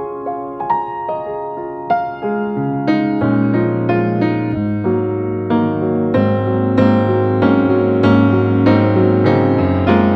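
Soft piano music: struck notes over sustained low bass notes that come in about three seconds in, the sound growing fuller.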